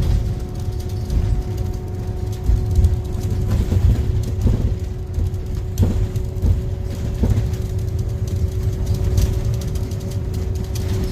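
Scania N250UD double-decker bus in motion, heard from the top deck: a steady low rumble with a constant whine over it, and occasional short knocks and rattles, loudest around four to seven seconds in.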